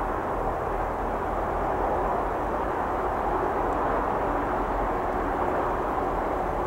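Steady, even rumble of a distant Southeastern electric multiple-unit train approaching along the line, with no horn or sharp sounds.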